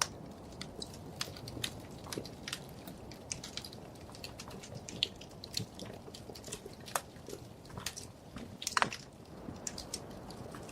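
Wood fire crackling in a fireplace: irregular sharp pops and snaps over a low, steady rumble of burning, with a louder burst of pops late on.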